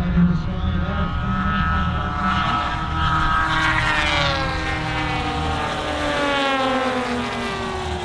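Propeller-driven engine of a large-scale radio-controlled WW2 fighter model making a pass, its pitch climbing as it approaches and then falling steadily as it goes by, over a steady low rumble.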